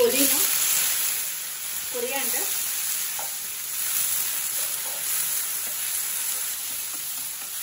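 Fresh mint and coriander leaves sizzling in hot oil with green chillies and whole spices in a nonstick kadai, stirred with a wooden spatula. The sizzle is loudest at the start, as the mint goes in, then settles to a steady frying hiss.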